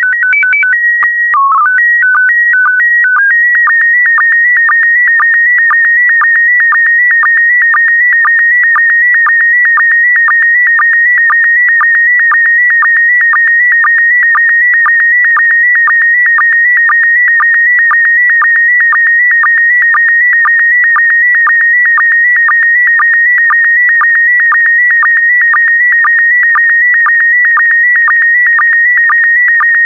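SSTV PD120 image transmission. It opens with a short header of tones stepping between a few pitches, then settles into a steady high tone near 2 kHz, broken about twice a second by short lower blips: the line sync pulses of the image being sent line by line.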